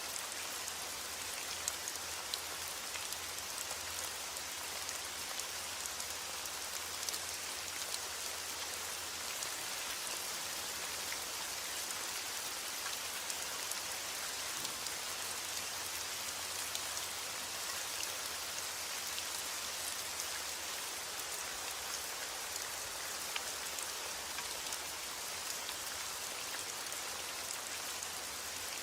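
Steady heavy rain falling: an even hiss with scattered drop ticks.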